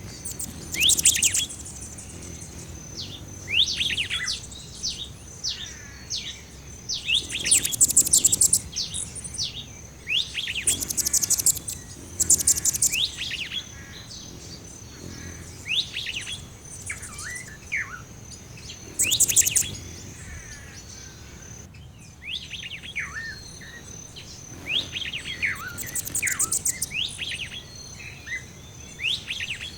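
Background ambiance of songbirds chirping and trilling. Short bursts of quick downward-sweeping notes and rapid trills come every couple of seconds over a steady high-pitched hum.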